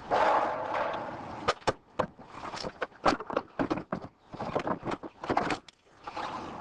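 A car battery being lowered into its tray under the hood: a scrape as it goes in, then a string of irregular clicks and knocks from hands and tools on the battery and its fittings.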